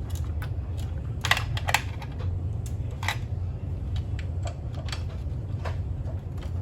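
Scattered sharp clicks and taps over a steady low hum, with two loud clicks just over a second in and another about three seconds in.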